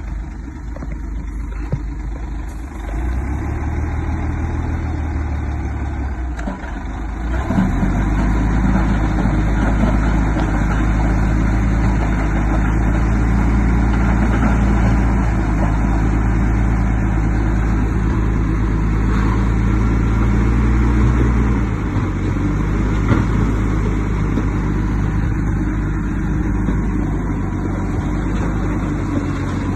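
Heavy diesel engine of an earthmoving machine running. Its note steps up and gets louder about seven seconds in, holds, and drops back about twenty-two seconds in.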